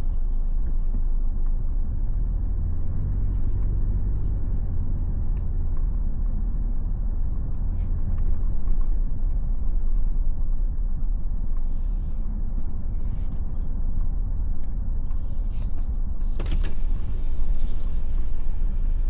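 Toyota Land Cruiser 250 driving, its steady engine and road rumble heard from inside the cabin, with a few light clicks and knocks.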